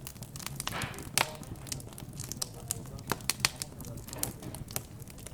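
Wood fire crackling, with irregular sharp pops, the loudest a little over a second in.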